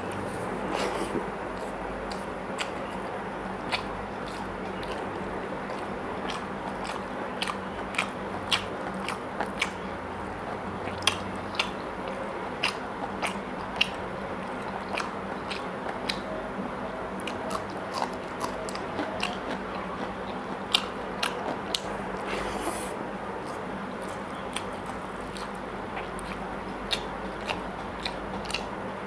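Chewing and mouth sounds of a person eating rice and mutton curry by hand: many short, sharp clicks scattered throughout, over a steady low hum.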